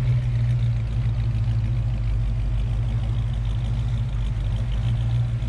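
Classic Mopar muscle car engine idling steadily with a low, even note and no revving.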